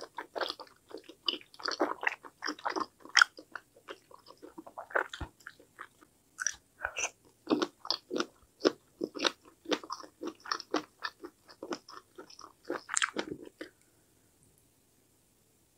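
Close-miked chewing of a mouthful of mala tteokbokki: irregular wet clicks and smacks of chewy rice cake and fish cake. The chewing stops about 14 seconds in.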